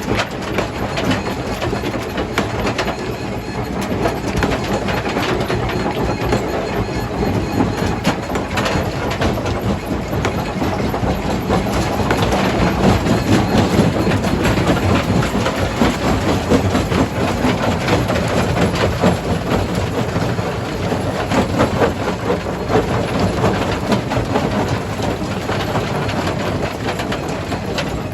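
Stone crusher running and crushing rock: a steady heavy machine rumble under a dense, irregular clatter of stones knocking and breaking, growing a little louder partway through.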